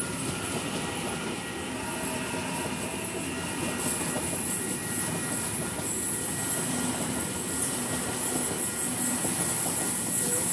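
A train running past, with a steady rumble and faint whining tones. A high hiss strengthens about four seconds in, and the sound grows slowly louder.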